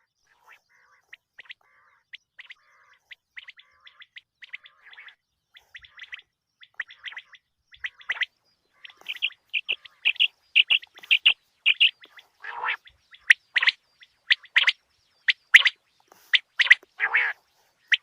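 Common quail calling: many short, sharp notes in quick runs, faint at first and much louder from about halfway.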